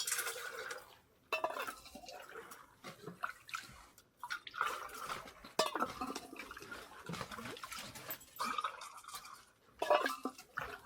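Water being scooped and poured into a kettle, in irregular splashing, sloshing bursts.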